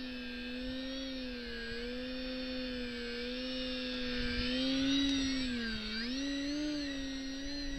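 Parkzone VisionAire RC plane's electric motor and propeller whining as it flies, the pitch wavering with throttle changes and dipping briefly about six seconds in before climbing again. Wind rumbles on the microphone underneath.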